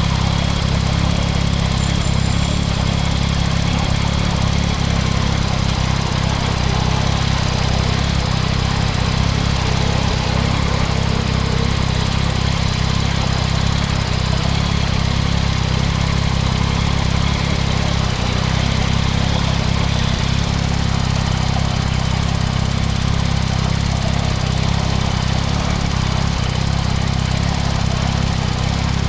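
Yamaha MT-09 SP's 890 cc inline-three engine running at steady, unchanging revs through a Spark triple-exit exhaust.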